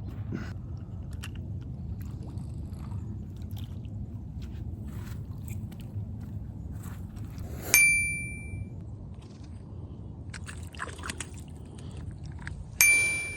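Two sharp metallic dings, each ringing briefly with a clear bell-like tone, about five seconds apart, over a steady low rumble.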